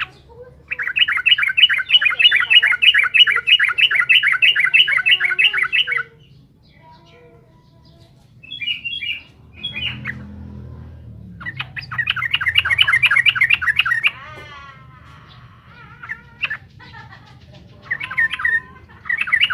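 Yellow-vented bulbul (trucukan) singing rapid runs of repeated bubbly notes, about four a second. The runs come in bursts: one lasting about five seconds, a few short notes, a second run about twelve seconds in, and another near the end.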